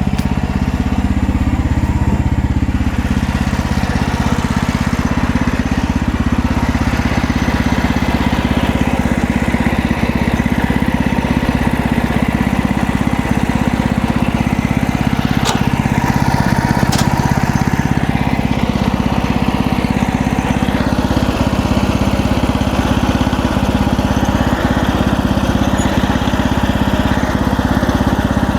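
MechMaxx band sawmill's gas engine running steady under load as the band blade cuts through a cedar log, with two sharp ticks about halfway through.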